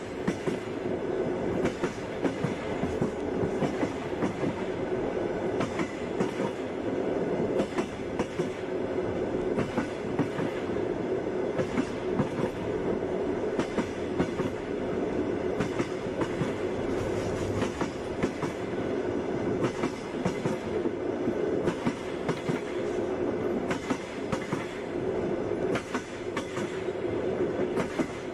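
Passenger train rolling along at a steady pace: a continuous rumble with the wheels clicking and knocking over the rail joints, the clickety-clack of the carriage.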